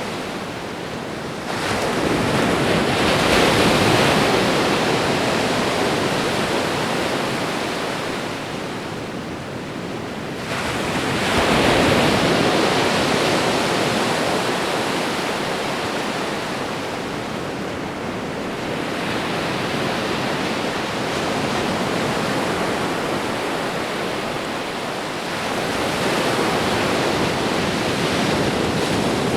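Ocean waves breaking and washing onto a shore. Three swells build and break, about a second and a half in, about ten seconds in and near the end, each fading slowly between.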